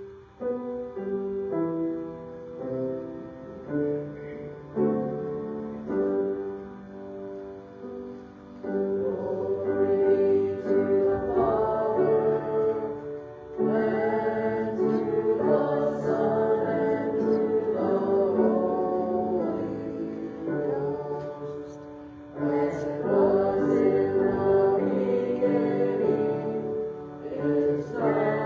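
A congregation singing a hymn with keyboard accompaniment, after about eight seconds of keyboard introduction.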